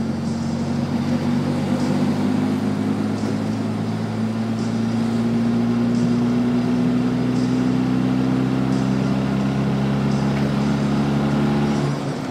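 Fiat 126p's air-cooled two-cylinder engine, heard from inside the cabin at highway speed: a steady drone over road noise. Its pitch rises slightly and holds, then drops near the end.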